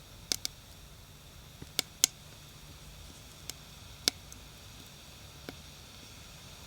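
Firewood burning in a campfire, crackling with sharp, irregular pops over a faint steady background; the loudest pops come near the start and about two seconds in.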